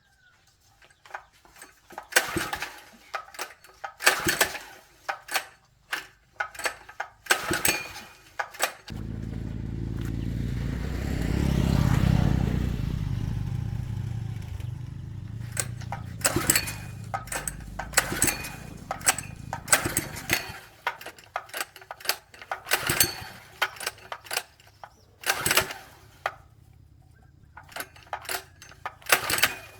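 Sharp clicks and knocks of parts and tools being handled. About nine seconds in, a 750 W electric motor starts with a low hum, builds for about three seconds, then slowly dies away over about eight seconds. More clicking and knocking follows.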